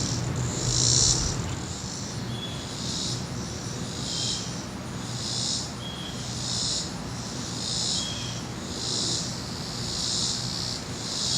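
A pulsing insect chorus, with high buzzes repeating about once a second, over the low steady rumble of a departing jet airliner in the distance.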